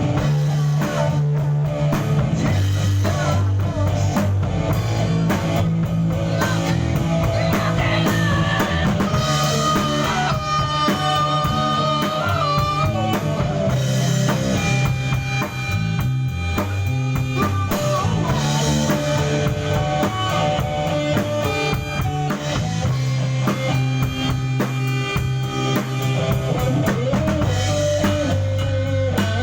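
A rock band playing live in a rehearsal studio: drum kit, guitar and bass, with a bending melody line over a steady bass.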